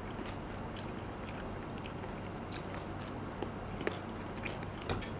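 People eating at the table: faint chewing with a few short clicks, over a steady background hiss and low hum.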